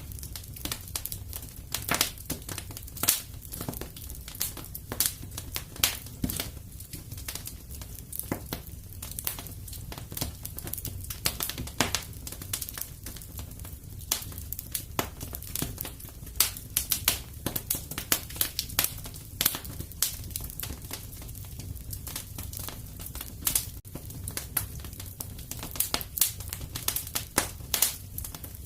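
Fire in a fireplace crackling: frequent, irregular sharp pops and snaps over a steady low rumble.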